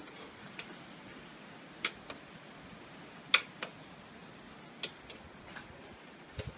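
Shashlik grilling over hot coals: the coals crackle with a sharp pop about every second and a half and smaller ticks between, over a faint hiss.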